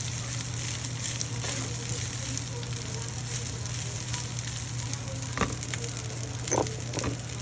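Garlic fried rice sizzling steadily in a hot pan as it is stirred, with a few short knocks of the utensil against the pan, the clearest about five and a half seconds in.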